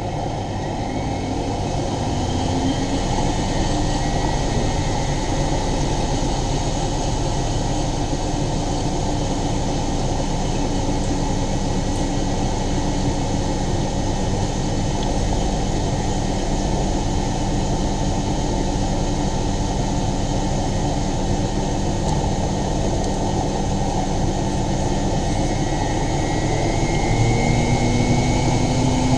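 Miele Novotronic W923 washing machine spinning its drum with a steady, loud running noise. Near the end its motor whine rises in pitch and the sound grows a little louder as the spin speeds up.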